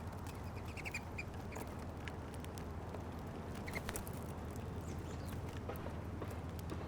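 Small birds feeding at a seed feeder: scattered light clicks and taps of pecking and hopping, with a few short chirps about a second in and again near four seconds, over a steady low background rumble.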